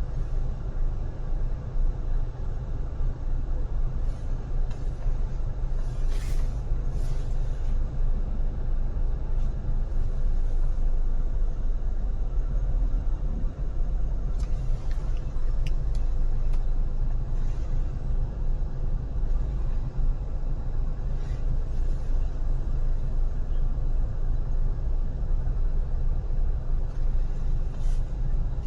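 Car driving at freeway speed: a steady low rumble of tyres and engine, with a few faint ticks.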